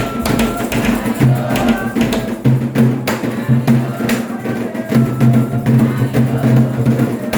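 Candomblé ritual music: hand drums beaten in a fast, steady rhythm with clicking percussion, and voices singing over it.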